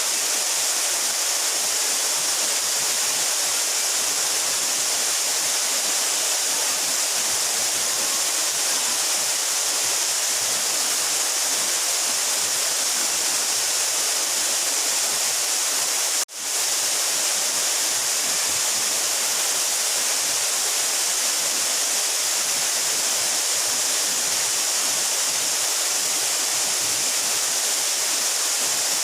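Steady rushing of water falling down a 12-metre mountain waterfall, a bright, even hiss. About sixteen seconds in it drops out for a split second and then comes back.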